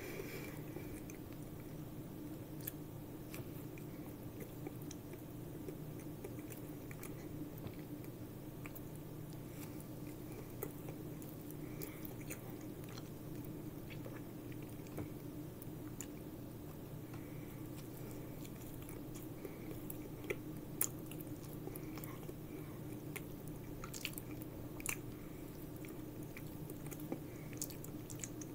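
A person chewing a hamburger close to the microphone: soft wet mouth clicks and smacks come at irregular moments over a steady low hum.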